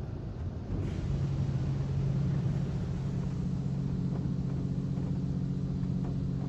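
A low, steady motor hum comes on about a second in, after a short rush of noise, and holds evenly over a low rumble.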